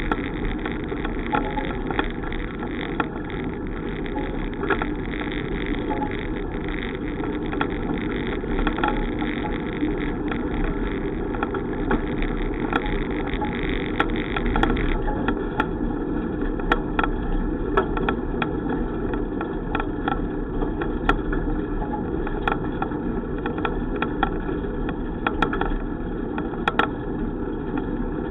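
Steady rumbling noise of a bicycle ride, with many scattered sharp clicks and rattles.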